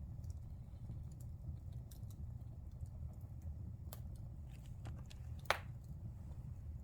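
Fire in a fireplace crackling over a steady low rumble. There are scattered small crackles and one sharp, loud pop about five and a half seconds in.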